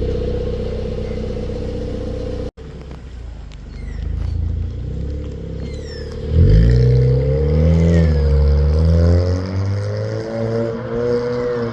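2020 Kia Cerato S four-cylinder engine through a custom 2.25-inch cat-back exhaust with a Lukey Megaflow muffler: idling steadily, then after a cut about two and a half seconds in, the engine comes in loudly and is revved up and down several times.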